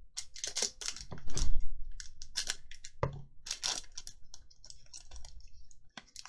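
Crinkling and rustling from handling booster pack packaging and trading cards, in irregular crackly bursts, with a louder handling thump about one and a half seconds in.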